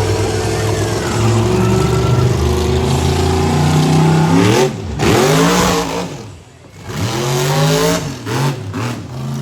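Monster truck engine revving hard, its pitch rising and falling with the throttle. It shoots up about four and a half seconds in, drops away almost to nothing around six and a half seconds, revs back up, then blips in short bursts near the end.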